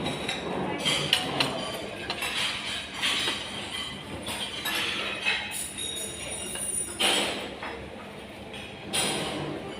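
Cutlery clinking against china plates and cups: several sharp clinks, some with a short ring, over a steady background of room noise.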